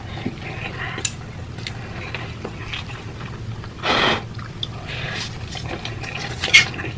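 Close-up eating of noodles: wet chewing and small mouth clicks, with one louder slurp about four seconds in and a short one near the end.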